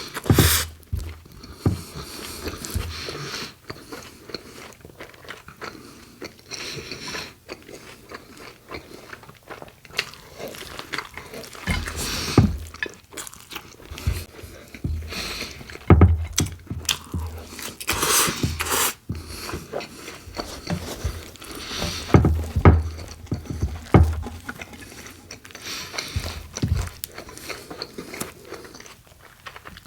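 Close-miked eating: bites into a BLT sandwich on Italian bread, with crisp bacon and iceberg lettuce crunching, then wet chewing. The crunches are irregular, with the loudest clusters past the middle.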